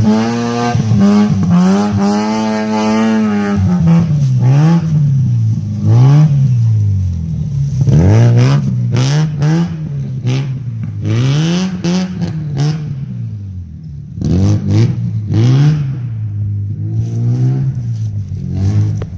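Mazda RX7 rally car's 13B six-port rotary engine revving up and falling back over and over, roughly every two seconds, as the car is driven hard on gravel. Sharp clicks and knocks come through in the second half.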